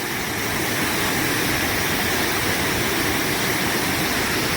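Waterfall and river water rushing, a steady even rush that swells slightly about half a second in.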